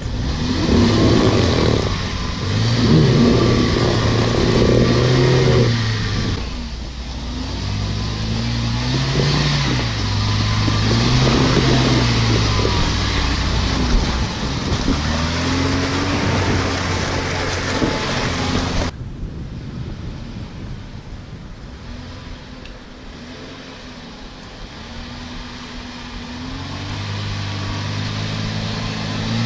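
Off-road 4x4's engine revving up and falling back again and again. A rushing noise sits over it in the first few seconds. About two-thirds of the way through the sound drops abruptly to a quieter engine, which builds again near the end.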